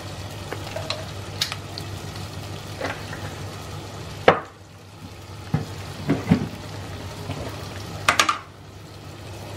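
Vegetables frying in sesame oil in a clay pot: a soft, steady sizzle over a low hum, broken by a few sharp clicks and knocks, the loudest about four seconds in and a quick cluster near eight seconds.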